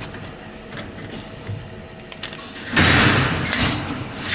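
Chicken tractor's lifting gear and jockey wheel being worked, with light mechanical ticking and rattling and one loud grinding scrape about three seconds in.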